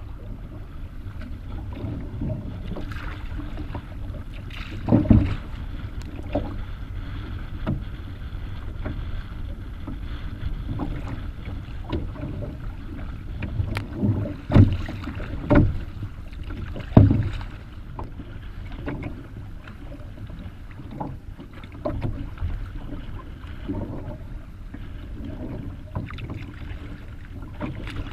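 Wind rumbling on the microphone and water splashing around a canoe on rough, choppy lake water, with several loud knocks: one about five seconds in and four more close together about halfway through.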